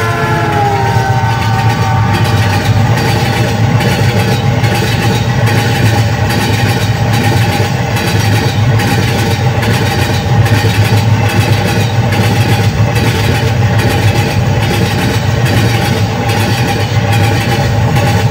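Train running steadily: a loud rumble with a regular wheel clack a little more often than once a second. In the first second, a horn chord slides down in pitch and fades.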